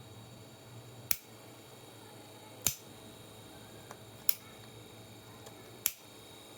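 Four sharp clicks, evenly spaced about a second and a half apart, over a steady low hum.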